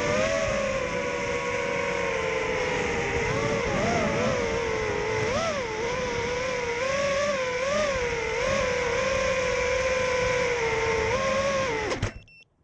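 FPV quadcopter's brushless motors whining steadily, the pitch swinging up and down with the throttle. The sound cuts off suddenly near the end.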